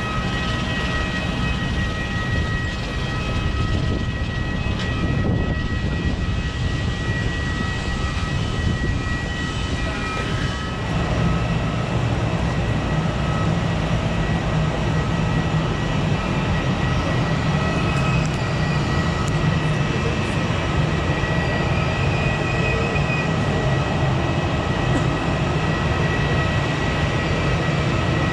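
Steady mechanical drone with a constant high whine from a parked airliner during boarding. The low drone gets louder about eleven seconds in.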